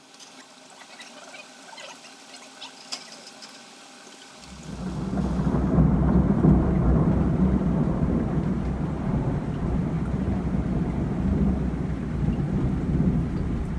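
Thunderstorm downpour: faint scattered drips and ticks at first, then about four seconds in heavy rain sets in suddenly and stays loud, with a deep rumble of thunder beneath it.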